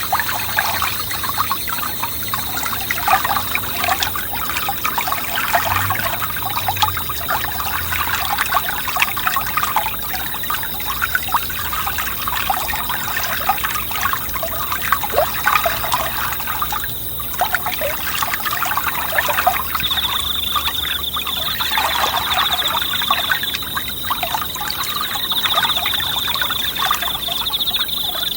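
A small forest stream babbling and trickling over stones, with a steady high-pitched insect trill running over it that grows louder and pulses from about two-thirds of the way in.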